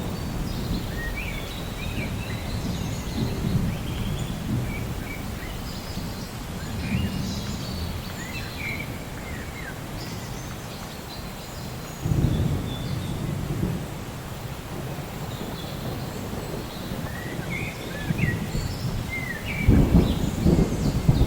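Rolling thunder over steady rain, with birds chirping above it. A new peal of thunder breaks in about twelve seconds in, and a louder, crackling one near the end.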